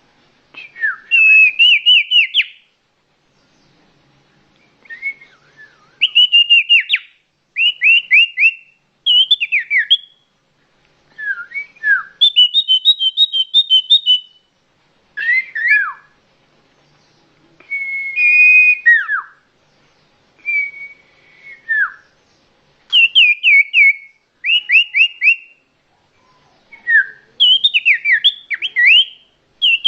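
Common iora song: loud, clear whistled phrases of quick notes, many sliding down in pitch, repeated in short bursts with brief pauses, the phrases changing from one burst to the next.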